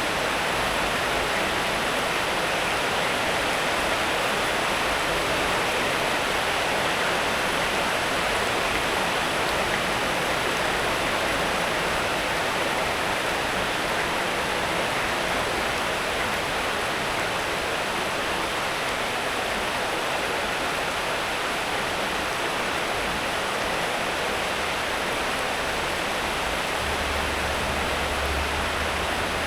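Steady rain falling, an even hiss that neither rises nor falls. A faint low rumble comes in under it near the end.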